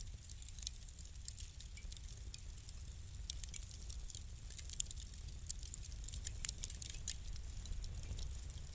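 Burning wood fire crackling: irregular sharp pops and snaps, thicker in the middle stretch, over a steady low rumble.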